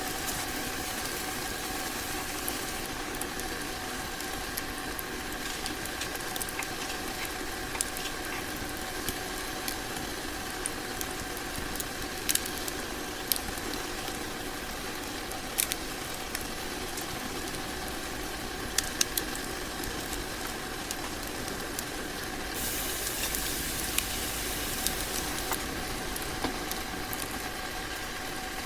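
Wood fire burning in a hot tent's stove: a steady rush and hum with scattered sharp crackles and pops, and a brighter hiss starting about three-quarters of the way through.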